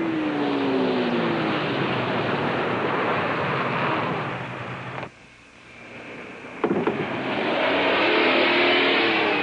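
A car driven hard on a test track, its engine note falling away in the first second or two over loud road and engine noise. The sound cuts off sharply about five seconds in and comes back suddenly near seven seconds as a second loud pass.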